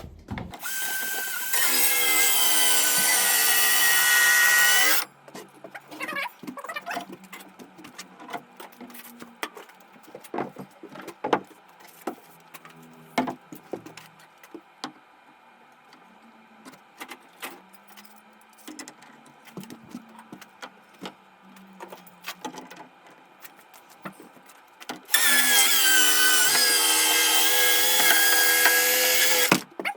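Cordless circular saw run twice, about four to five seconds each, cutting through the bottom edge of a wooden door on a deeper second pass. Between the two runs come scattered light clicks and knocks of handling.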